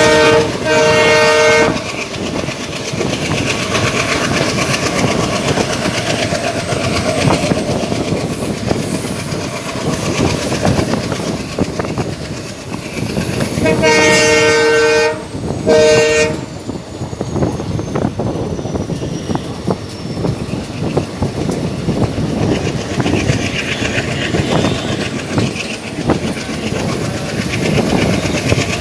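Diesel-hauled passenger train running, with steady wheel clatter over the rail joints. The ALCo WDM-3A locomotive's two-note horn sounds: a short blast at the start, a longer one about halfway through, then a brief toot right after it.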